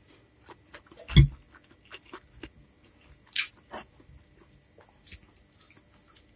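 Close-miked wet chewing and lip-smacking clicks of a mouthful of spicy Korean instant fried noodles, with chopsticks picking at the noodles on the plate. A single louder low thump comes about a second in.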